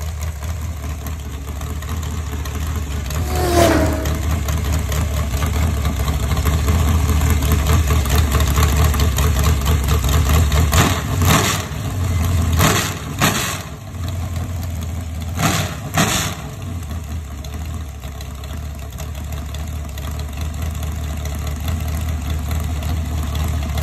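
Carbureted V8 engine with open headers running on an engine stand, idling steadily. Its throttle is opened by hand several times, mostly between about 11 and 16 seconds in, each blip bringing a sharp crack from the open pipes.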